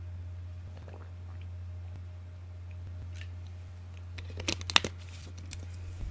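Sharp, crisp clicks and crackles close to the microphone, sparse at first, then a quick cluster about four and a half seconds in and a loud one at the very end, over a steady low hum.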